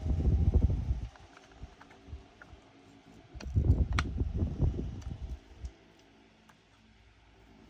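Small plastic pots and bags of diamond-painting drills being handled and the drills tipped in, giving rapid rattling and knocking clatter in two spells: one in the first second and a longer one from about three and a half seconds in, with a few stray ticks between.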